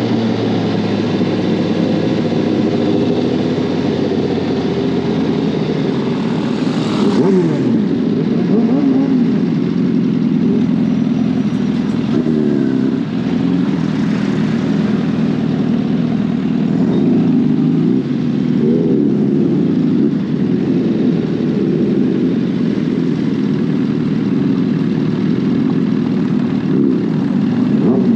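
Suzuki GSX-R1000R inline-four engine riding under way. Its pitch climbs and falls repeatedly as it accelerates and shifts through the gears, over steady wind and road noise.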